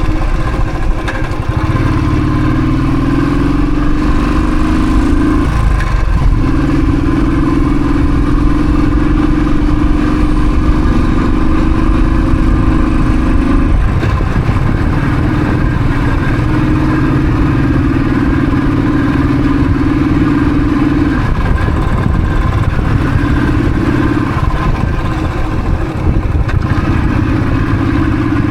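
Royal Enfield Thunderbird's single-cylinder engine running on the move. Its note climbs slowly in each of several long pulls, dipping briefly between them as gears are changed.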